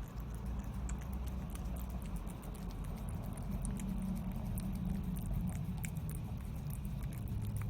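Cat eating wet canned food: many small, quick, wet clicks of chewing and lip-smacking, over a steady low hum.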